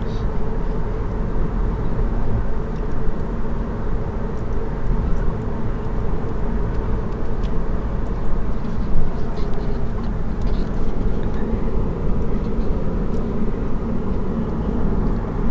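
Steady road and tyre noise heard from inside the cabin of a moving Chevy Bolt electric car, with a few light knocks.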